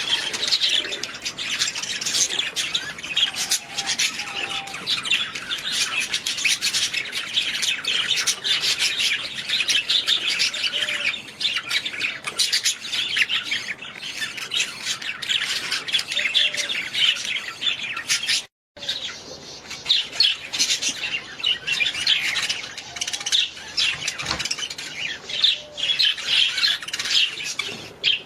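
Budgerigars chattering, with dense overlapping chirps, squawks and warbles that run on without a pause. The sound cuts out completely for a moment just before 19 seconds, then the chatter resumes.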